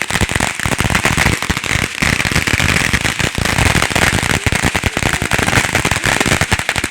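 Firecrackers going off in a dense, rapid run of sharp pops and cracks, continuous and loud.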